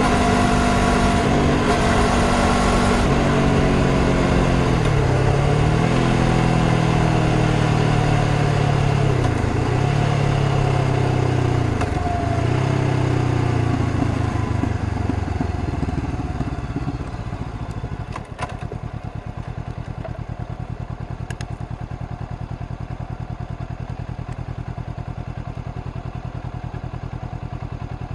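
Honda CBR500R 471 cc parallel-twin engine slowing down, its pitch dipping and recovering several times as the gears change. About two-thirds of the way in it settles to a steady idle, with a couple of faint clicks.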